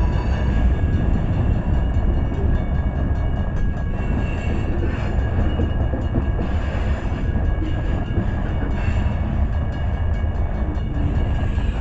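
A freight train's tank cars and boxcars rolling past, a steady low rumble of steel wheels on the rails.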